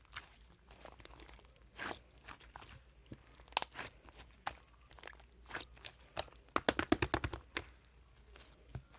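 Slime being pressed and poked by hand, giving off irregular crackling pops and clicks, with a quick run of them in the second half.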